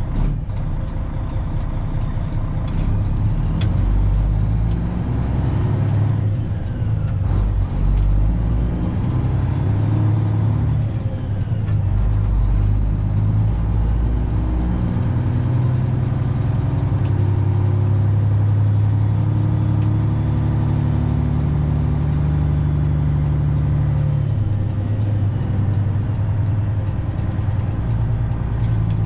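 Semi truck's Detroit Diesel 12.7 engine pulling under way. The low engine note shifts in steps several times as the truck goes up through the gears.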